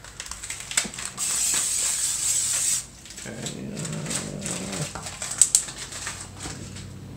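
Aerosol cooking spray hissing as it is sprayed into a frying pan, one steady burst of about a second and a half starting about a second in.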